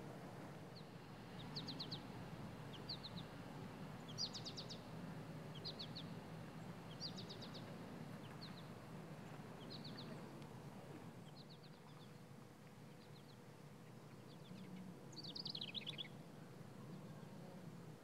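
Small songbirds chirping in short, high, rapid clusters of notes about once a second, with a longer falling trill near the end, over a faint steady outdoor background hum.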